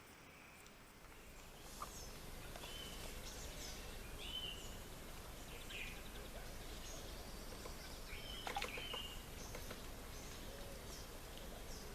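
Wild birds singing and calling, many short chirps and whistled notes, over a steady low rumble of outdoor background noise that comes up about a second and a half in.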